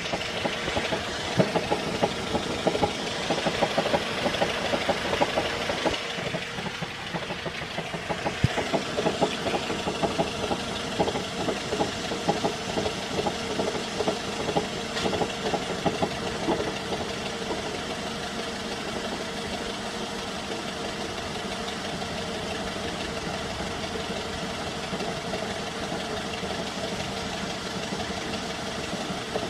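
Ford Focus 2 idling with a knocking sound from the clutch area. Irregular sharp knocks ride over the idle for roughly the first half, then the running evens out with only occasional light knocks.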